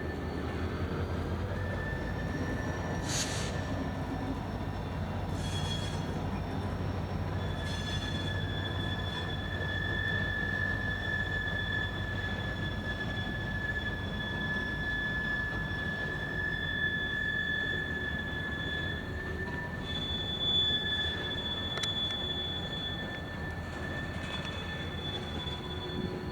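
Freight train rolling past with its steel wheels squealing: a high-pitched squeal that comes and goes over a steady low rumble, held longest for about ten seconds in the middle.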